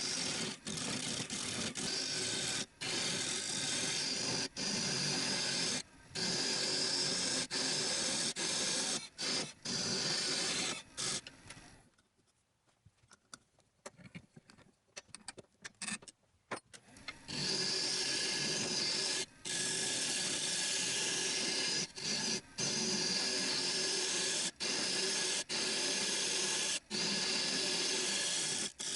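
Wood lathe running while a turning tool cuts the spinning wood: a steady rushing hiss that stops and restarts abruptly many times, with a near-quiet stretch of about five seconds in the middle.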